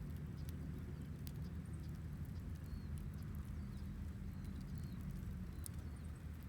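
Wood fire burning: scattered crackles and sharp pops over a steady low rumble.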